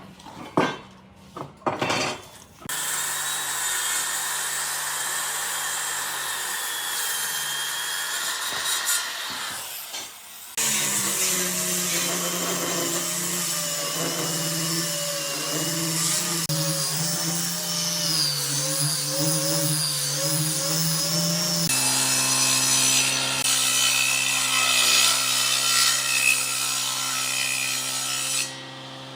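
A power tool running on wood in long, steady stretches, after a few sharp knocks at the start. It stops briefly about ten seconds in, changes pitch about twenty-two seconds in, and cuts off near the end.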